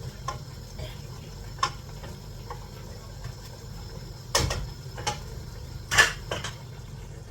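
Irregular light clicks and a few louder knocks of kitchen work at the stove, over a steady low hum.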